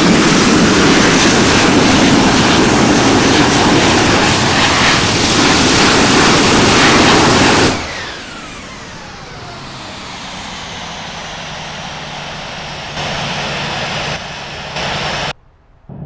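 Boeing 717-200's Rolls-Royce BR715 jet engines running at high power, a loud steady roar that drops off abruptly about eight seconds in to a quieter whine falling in pitch as the engines spool down. Near the end the sound cuts out briefly.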